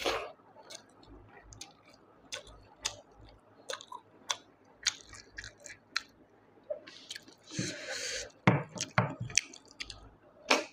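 Close-miked chewing of snail curry and rice: soft, wet mouth clicks and smacks at an uneven pace, with a longer, breathier noise about three-quarters of the way through.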